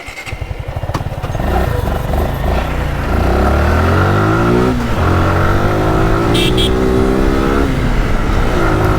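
Suzuki Gixxer SF 155cc single-cylinder motorcycle engine pulling away, rising in pitch as it accelerates through the gears. The pitch drops sharply at gear changes about five and eight seconds in.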